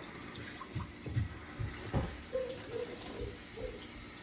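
Kitchen faucet running as celery is rinsed under it, with a few soft low knocks about a second in.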